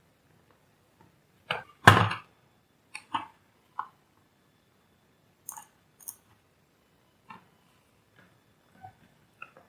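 Scattered short clicks and knocks of tools and parts handled on a repair bench, with one heavier knock about two seconds in.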